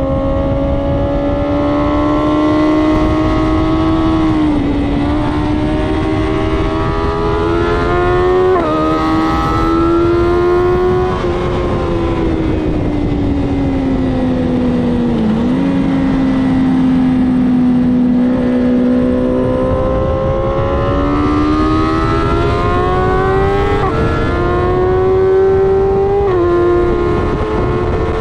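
BMW S1000RR inline-four engine at full track pace over heavy wind rush. It revs up through the gears with sudden pitch drops at each upshift: one about a third of the way in and two near the end. In the middle it falls away as the bike slows for a corner, holds steady through it, then climbs again.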